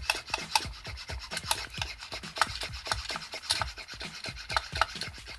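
Small model-kit parts being handled and worked by hand, a fast, irregular run of light clicks with rubbing between them.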